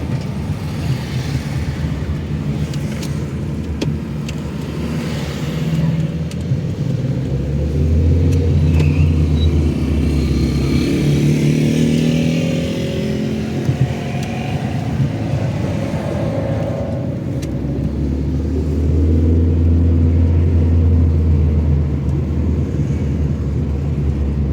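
Car engine and road noise while driving, the engine note rising and growing louder twice as the car accelerates.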